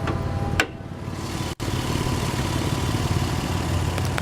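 1998 Lexus ES300's 3.0-litre V6 idling steadily, with one sharp click about half a second in.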